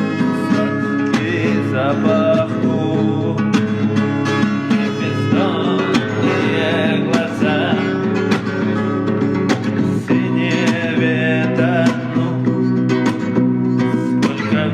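Acoustic guitar playing a song, chords and melody together.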